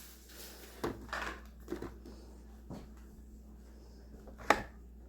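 A few light knocks and clicks of household objects being handled and moved about, with one sharper, louder knock about four and a half seconds in.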